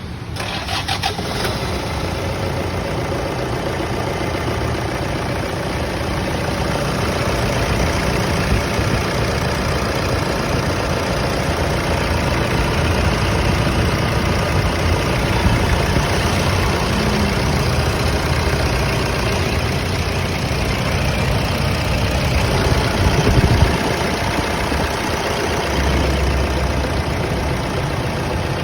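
Toyota Hilux VNT turbo-diesel engine idling steadily.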